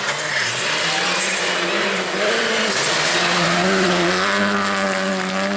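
Rally car engine driven hard through a special stage. Its pitch climbs and dips with the gear changes, then holds high near the end.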